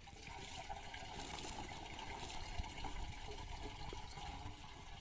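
Pumped irrigation water pouring and splashing as a steady rush that picks up a moment in.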